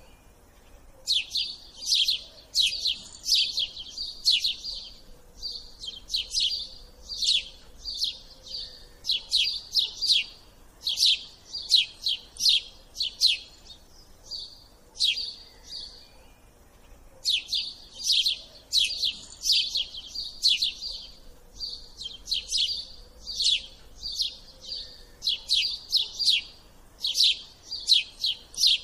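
A small bird chirping rapidly and continuously: clusters of quick, high, falling chirps, with a break of about two seconds midway.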